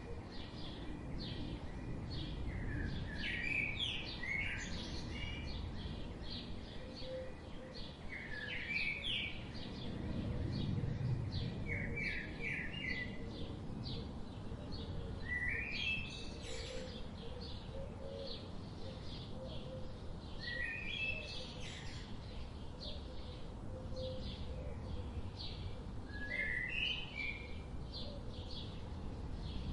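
Birds singing: one bird repeats a short phrase of falling notes every four or five seconds, with quicker high chirps from others in between, over a steady low outdoor rumble.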